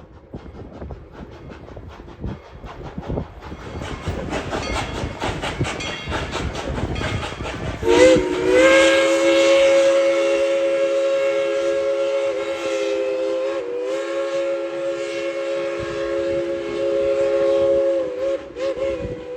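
Tweetsie Railroad's narrow-gauge steam locomotive No. 190 running with rapid rhythmic beats. About eight seconds in, its chime whistle sounds one long chord blast of several tones, which wavers briefly midway and cuts off near the end.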